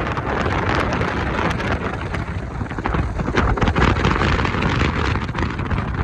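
Strong sea wind buffeting the microphone, with heavy surf rushing underneath: a loud, gusting noise that rises and falls.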